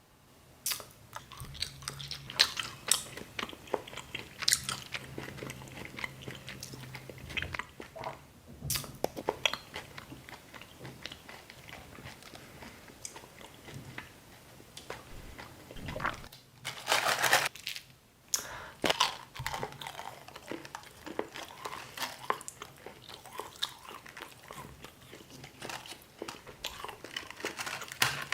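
Close-miked eating: repeated bites and chewing, with crunchy, crackly mouth noises throughout and a louder rustling burst about seventeen seconds in.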